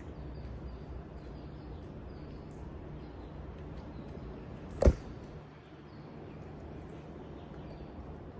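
A single sharp knock about five seconds in, over a steady low background hum.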